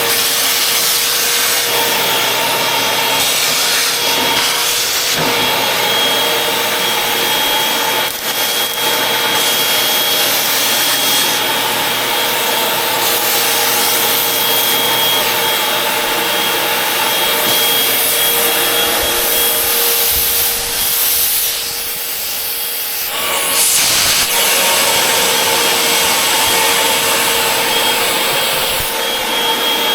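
Vacuum cleaner running steadily while vacuuming, a constant motor whine over a brushing, rushing noise. The sound briefly drops and changes about three quarters of the way through, then comes back.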